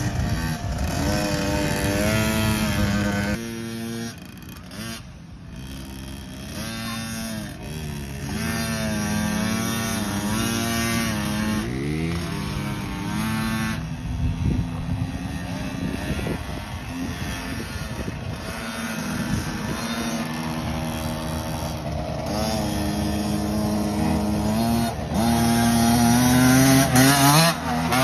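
KTM motocross bikes revving up and down as they ride round a dirt track, more than one engine at a time, the pitch rising and falling with each throttle change. The engines fade somewhat a few seconds in, then come back and get loudest near the end as a bike comes close.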